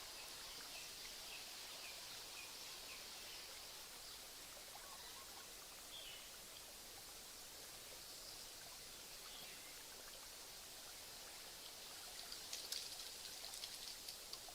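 Faint nature ambience: a steady hiss of water, with a few soft bird chirps in the first few seconds and a short spatter of drops near the end.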